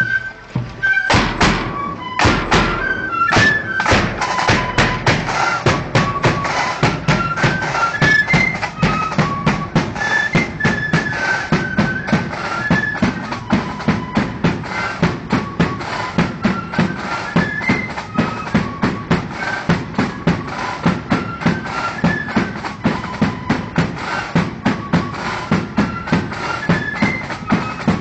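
Marching flute band playing a tune on flutes over a steady beat of snare and bass drums. The drums come in with a loud roll about a second in.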